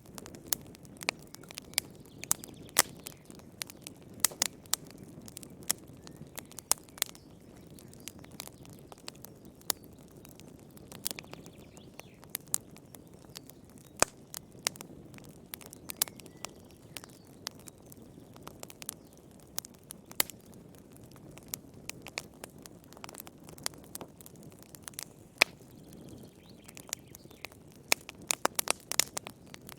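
Wood fire burning in a fireplace: irregular sharp crackles and pops over a low, steady rush of flame, with a quick flurry of pops near the end.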